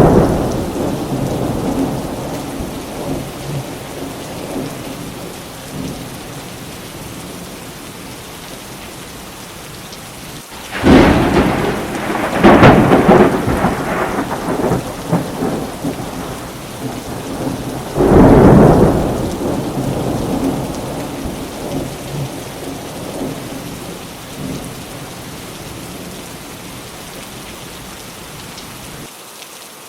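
Steady rain with thunder. A thunderclap fades out over the first few seconds, a loud double peal comes about 11 seconds in, and another follows near 18 seconds, each trailing off slowly while the rain keeps falling.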